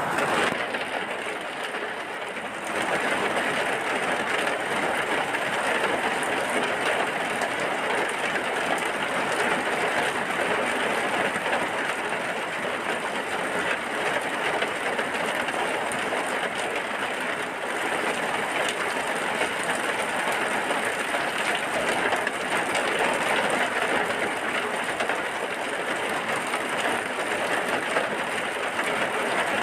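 Steady heavy rain, an even hiss that grows louder a little under three seconds in and then holds.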